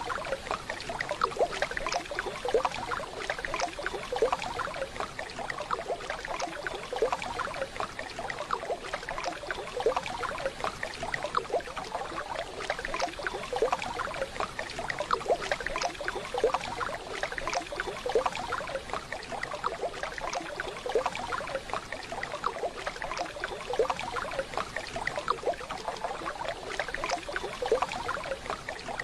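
Waterfall: running water splashing and babbling steadily.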